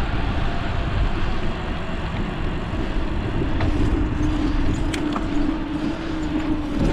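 Wind rushing over the microphone of a moving bicycle, with the steady hum of road noise; a low steady hum comes in about two and a half seconds in.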